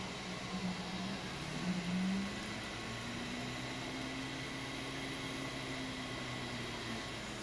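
3D printer stepper motors humming at pitches that step and glide as the print head moves, one rising glide about two seconds in and then a long steady tone, over a steady fan hiss.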